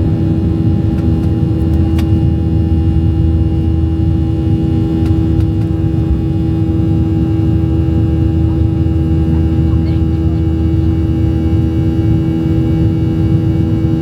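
Steady in-flight cabin drone of a Boeing 737-700: CFM56-7B jet engine and airflow noise heard inside the cabin, a constant pitched hum over a deep rumble.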